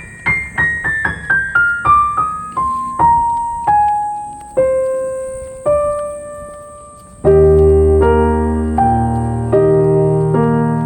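Background piano music. A descending run of single notes slows over the first several seconds, then fuller sustained chords with a low bass come in about seven seconds in.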